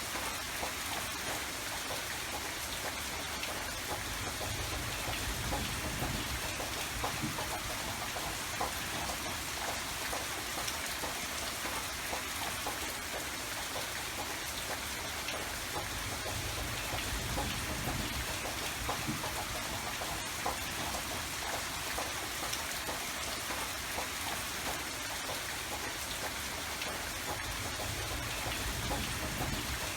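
Steady rain falling, with many separate drops ticking over an even hiss and a low rumble that swells now and then.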